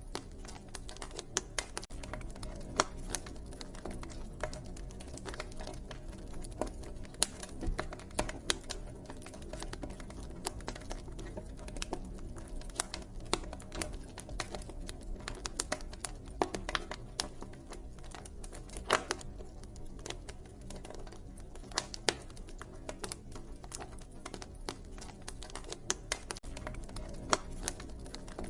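Wood fire crackling: irregular snaps and pops, a few much sharper than the rest, over a steady low rumble.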